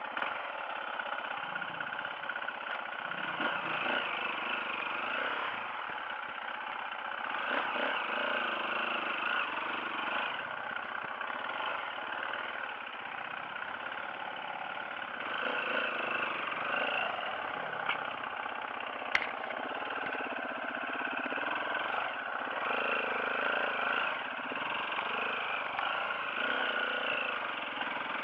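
Off-road dirt bike engines running, their pitch rising and falling with the throttle, with a single sharp click near the middle.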